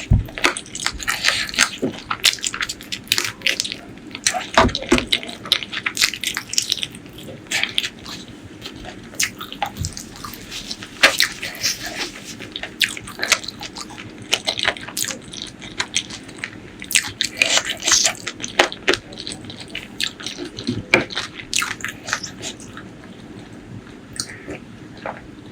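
Close-miked eating sounds: wet chewing and many irregular mouth clicks and smacks, thinning out near the end.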